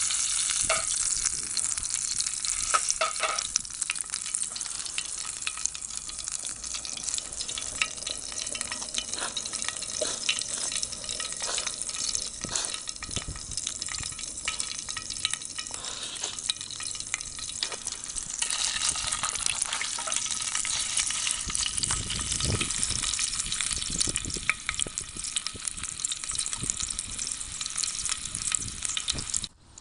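Food sizzling and frying on a hot pan or grill: a steady hiss with many small crackles and pops, cut off abruptly near the end.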